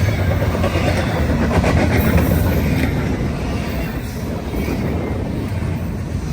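Diesel-hauled train passing close by: a steady low locomotive engine hum under the noise of steel wheels running on the rails, with some clicking over the rail joints.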